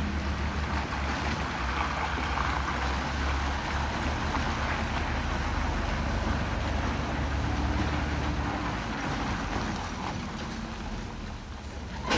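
Heavy diesel machinery running steadily: a low engine hum under a broad, rain-like hiss. The low hum drops away about eight seconds in.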